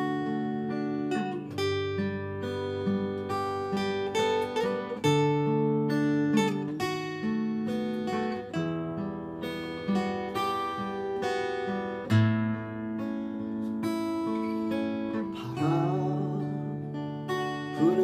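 Acoustic guitar playing the instrumental interlude between verses: a picked melody over strummed chords. A singing voice comes back in near the end.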